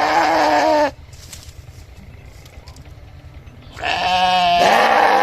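Sheep bleating: one loud bleat trails off about a second in, and another starts near the end.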